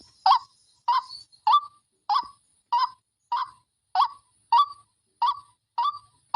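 White-breasted waterhen (wak-wak) lure call: a short call repeated steadily, about three every two seconds, each note bending slightly upward in pitch.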